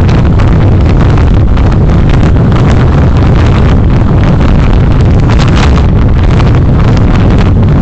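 Steady wind rushing over the microphone of a moving vehicle, with uneven gusts through it, over low road and engine noise.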